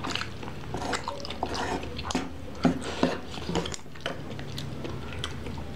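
Close-up wet eating sounds of a mouthful of jjajang noodles being chewed, with irregular lip smacks and small clicks.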